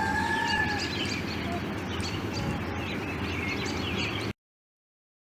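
Birds chirping in short high calls over a steady low background rumble, with a steady two-tone whistle that stops about a second in. The sound cuts off abruptly to silence about four seconds in.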